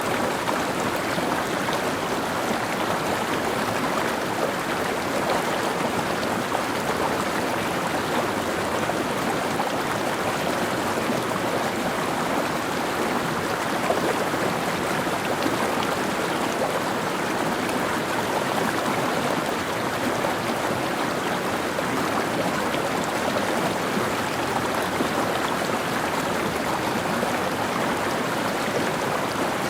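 A mountain stream running over rocks: a steady, even rush and babble of water with no breaks.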